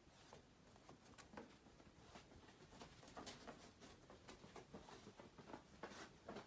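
A dog moving about as it hunts for hidden treats: faint, irregular taps and rustles that come more often toward the end.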